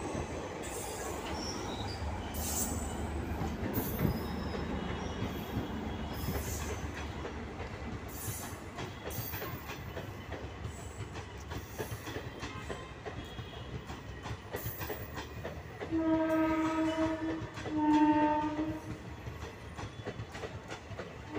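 Passenger train coaches rolling past, wheels clattering over the rail joints with a low rumble. About three-quarters of the way in, a train horn sounds two blasts of about a second each.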